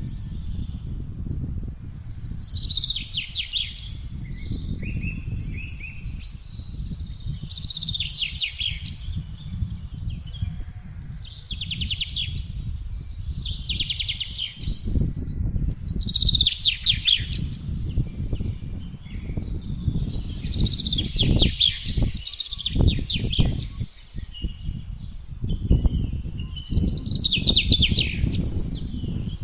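A songbird repeating short, fast trilled phrases, one every two to three seconds, over a low rumble of gusting wind that swells and drops.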